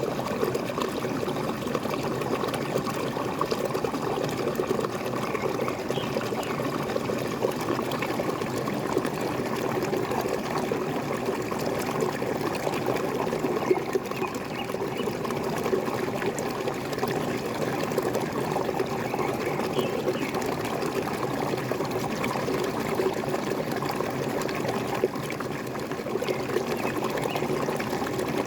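Small waterfall, water pouring and gurgling steadily without a break.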